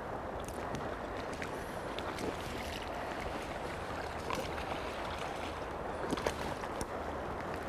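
Steady rush of flowing river water with some wind on the microphone, and a few faint scattered clicks.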